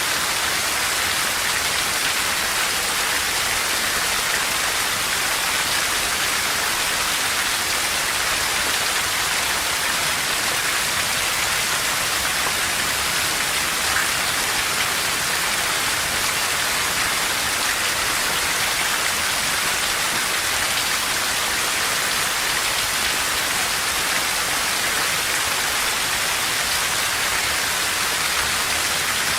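Steady heavy rain falling on a forest, an even hiss with no thunder or other events.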